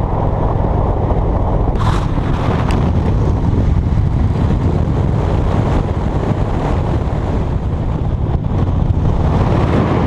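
Wind buffeting the microphone of a moving motorcycle, over the engine's steady drone, with a brief click about two seconds in.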